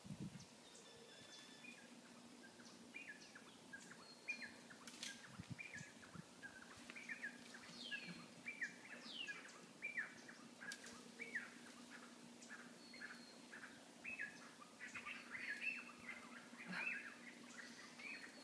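Birds chirping: many short calls that slide down in pitch, coming thicker in the second half, over a faint steady hum.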